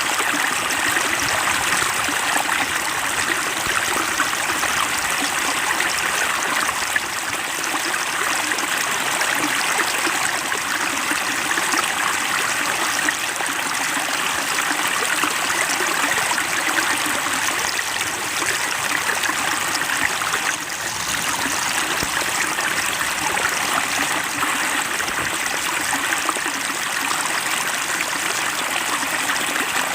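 Water splashing and trickling steadily into a fish pond.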